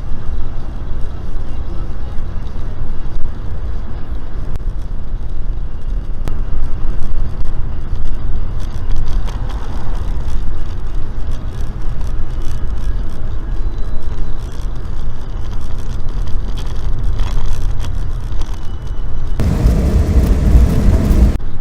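Steady low rumble of road and wind noise from a moving vehicle. Near the end it grows louder and fuller for about two seconds, then cuts off abruptly.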